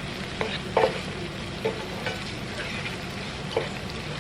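Diced onion, garlic and herbs sizzling in butter and bacon fat in a skillet while being stirred, with a few short knocks of the stirring utensil against the pan.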